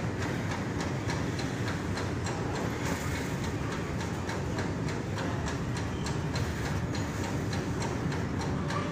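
Loaded BOXN open coal wagons of a freight train rolling past: a steady low rumble of wheels on rail with a quick, even run of clacks, several a second.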